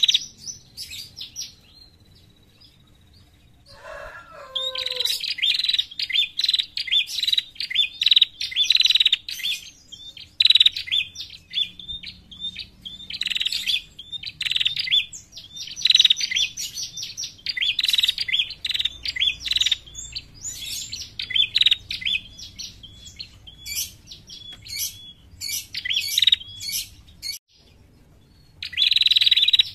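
Female prenjak calling: runs of rapid, high, sharp chirps, the call used as a lure for prenjak. The calling pauses about two seconds in and briefly again near the end.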